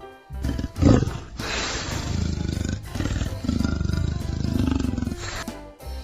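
Leopard roaring: a series of rough, low big-cat calls, the loudest about a second in, over background music.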